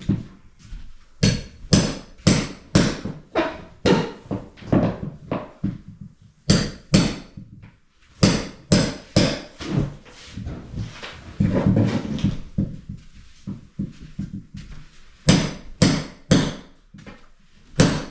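Hammer blows, struck in runs of quick strikes about two a second with short pauses between runs.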